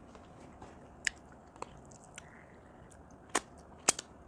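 Close-up eating sounds: chewing with a few sharp crunches and mouth clicks, the loudest two near the end.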